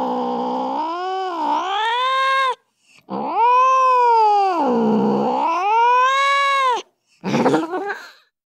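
Recorded angry domestic cat yowling: a long wail ends about two and a half seconds in, a second long wail follows with its pitch sagging in the middle and rising again, then a short, rougher cry near the end.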